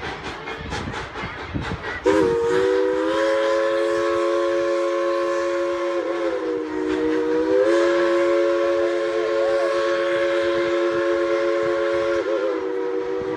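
Steam locomotive's chime whistle sounding one long blast, a chord of several steady notes, starting abruptly about two seconds in and wavering briefly twice. Before the whistle, the locomotive's rhythmic beats are heard, about three a second.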